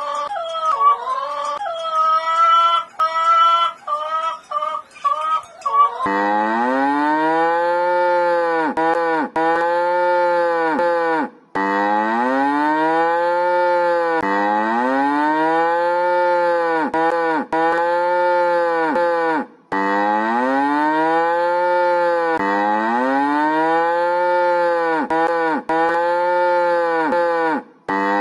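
Cow mooing over and over, about eight near-identical calls, each rising and then falling in pitch, coming roughly every two and a half seconds. The calls begin about six seconds in, after a wavering, pitched, voice-like sound.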